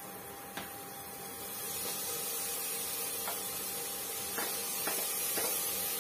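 Chopped tomatoes being spooned into hot oil and spices, sizzling with a steady hiss that swells about two seconds in. A few short clinks of a steel spoon against the plate and pot are heard over it.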